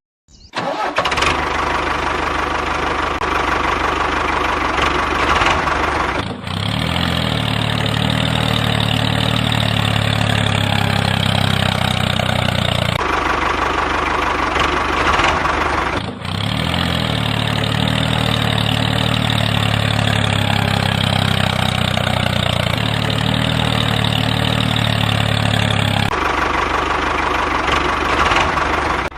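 Small engine running steadily, in several cut-together takes with abrupt changes between them.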